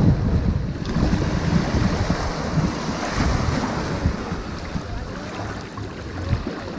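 Ocean surf washing onto a sandy beach in a steady wash of noise, with wind buffeting the microphone as a low rumble.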